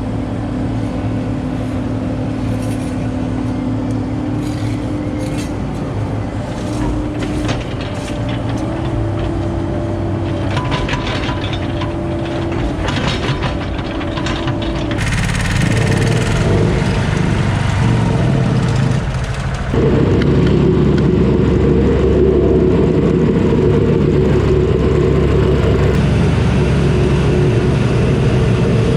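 Diesel engine of construction machinery running under working load, its pitch stepping up and down as the throttle and load change, with a change in the sound about halfway through and a louder stretch in the last third.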